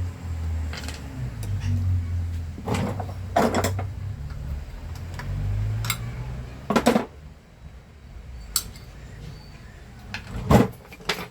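Small metal parts clicking and clinking as a nut is fitted by hand onto a handheld vacuum cleaner's motor, a handful of separate clicks with the sharpest near the end. A low rumble of handling runs under the first six seconds or so.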